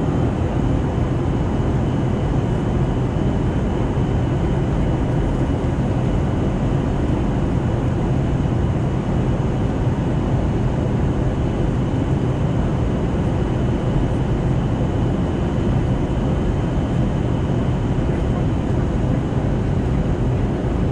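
Steady cabin noise inside an Airbus A320neo in descent: the rush of airflow over the fuselage and the hum of the engines, with faint steady whines running through it.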